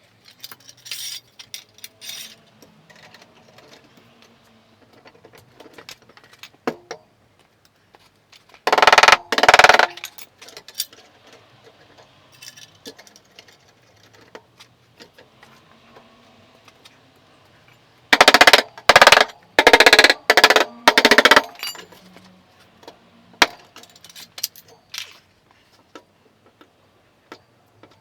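Car bodywork on a steel panel: light metallic taps and clicks throughout, with two loud stretches of rapid metallic impacts, one brief about a third of the way in and a longer run of several bursts about two-thirds in.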